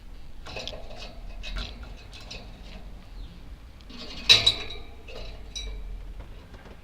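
Budgerigars chattering in short, quick chirps, with one sharp, loud click about four seconds in.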